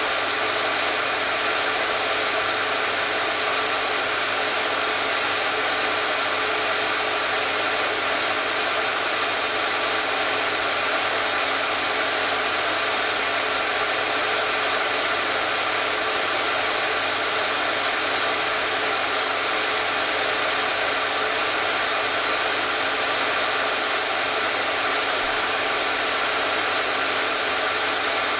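Hair dryer running steadily: a constant, even blowing whir with a faint steady hum, unchanging throughout.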